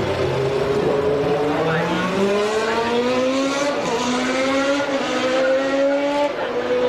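Formula One car engine accelerating hard, its pitch climbing through each gear with about four quick upshifts.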